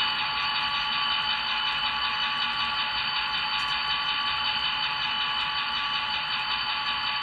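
MBTA GP40MC locomotive's head-end power equipment running steadily: a constant diesel drone carrying several steady high whining tones with a fine, fast pulsing.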